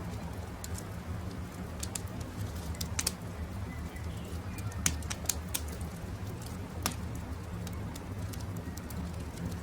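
Campfire crackling, with sharp pops scattered through it, the loudest about five and seven seconds in, over a steady low rumble. Birds call in the background.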